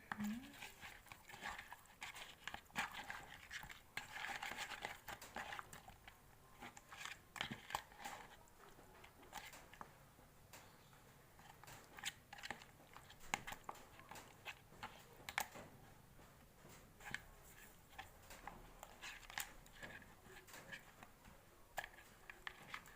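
Hands rubbing seasoning onto raw quail in a bowl: faint rustling handling noise with irregular light clicks and taps, busiest in the first several seconds.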